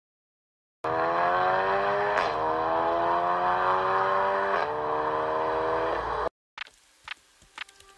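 Car engine accelerating hard through the gears. Its pitch climbs, drops at two upshifts, and climbs again, then the sound cuts off suddenly; a few faint clicks follow.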